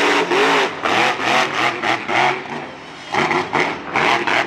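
Monster truck engine revving in quick repeated throttle bursts, about three a second, its pitch rising and falling, with a short lull about halfway through.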